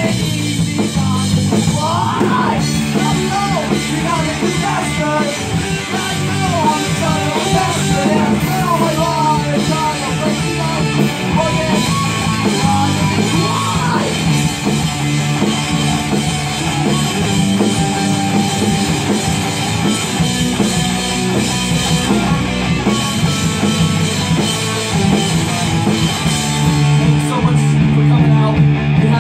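Rock band playing with distorted electric guitar and drum kit. A wavering lead line with bent notes stands out over the band for the first half.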